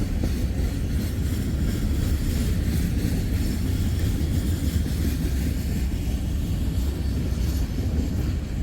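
CSX freight train's cars rolling past: a steady, low rumble of steel wheels on the rails.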